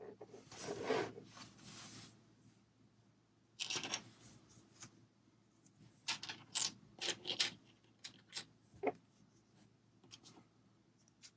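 Small plastic Lego pieces being handled: a rustle of rummaging through parts, then a clatter and a quick run of sharp clicks and clinks from about six to nine seconds in.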